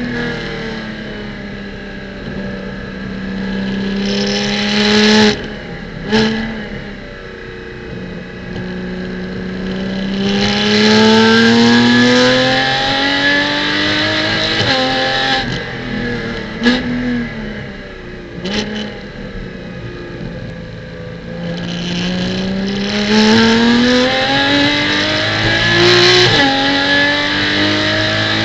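Porsche Cayman GT4 Clubsport's flat-six racing engine pulling hard three times, its pitch climbing each time until it breaks off sharply and falls back. A few sharp cracks come between the pulls, near a quarter, just over halfway and about two-thirds of the way through, and a hiss rises while the engine runs high.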